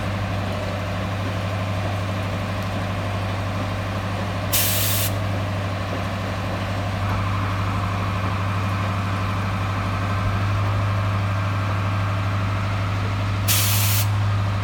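Engine of a Pengo four-drum line puller truck running steadily, with two short blasts of air hiss, like an air brake releasing, about four and a half and thirteen and a half seconds in. A higher steady whine joins the engine about seven seconds in.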